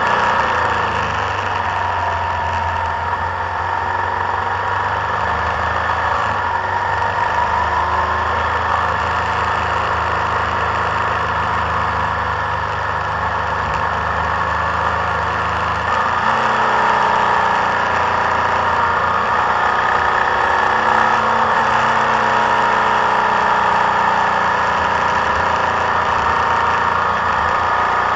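Motorcycle engine running steadily while riding downhill through bends, heard from a camera on the bike with wind and road noise over it. The engine note shifts about halfway through.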